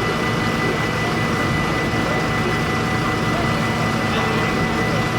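A steady low engine hum with a faint, constant high-pitched tone over it.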